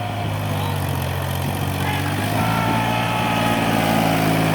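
Diesel engine running steadily, its pitch stepping slightly about two seconds in, with a faint high whine above it.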